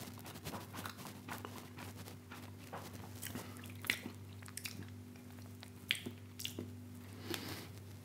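A man chewing a mouthful of soft Quorn vegan jerk mini fillet close to a clip-on microphone: scattered soft mouth clicks and smacks, with two sharper clicks about four and six seconds in. A faint steady low hum runs underneath.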